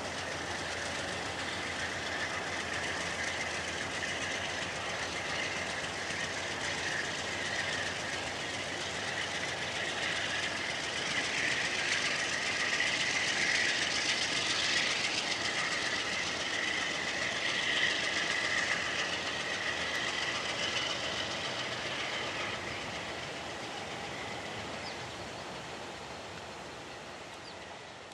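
Amtrak Maple Leaf passenger train pulling away on jointed track, its wheels rolling on the rails with a clickety-clack and a steady high-pitched whine. The noise grows louder through the middle, then fades as the train recedes.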